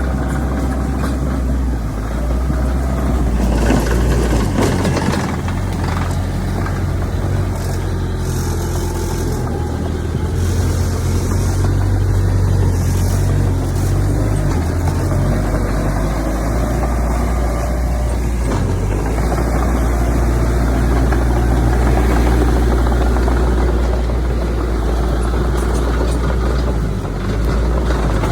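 Heavy diesel engine of a bulldozer running steadily, its pitch shifting up and down as the load changes. A few brief high hissing noises come between about 8 and 14 seconds in.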